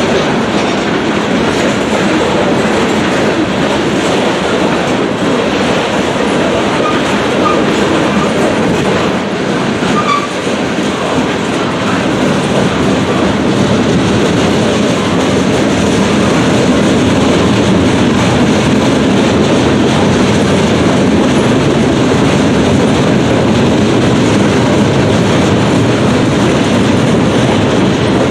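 Freight train cars rolling steadily past at a grade crossing: a continuous rumble with the clatter of steel wheels over the rail joints. It swells a little louder a bit past the halfway point.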